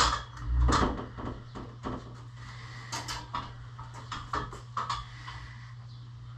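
A string of irregular knocks and clanks, the loudest a sharp knock at the very start followed by a heavier thud just under a second in, over a steady low hum.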